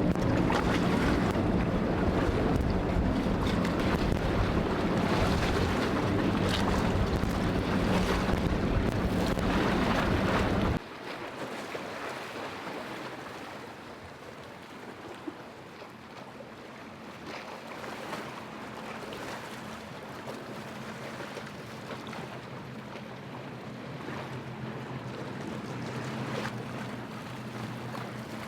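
Boat engines running through an inlet, heard over wind buffeting the microphone and breaking surf. About a third of the way in the sound cuts abruptly to a quieter stretch of surf and wind, where a fainter boat engine slowly grows louder near the end.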